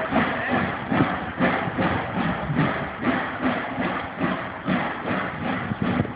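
Steam train running, with an uneven rhythmic beat of about two to three knocks a second over a steady mechanical clatter.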